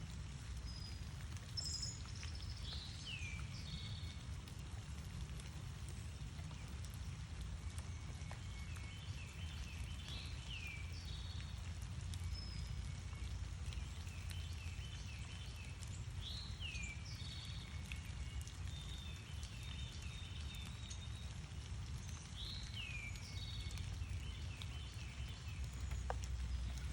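Northern cardinal singing: phrases of a few steep down-slurred whistles followed by a quick run of short notes, repeated about every six or seven seconds, over a steady low rumble of background noise.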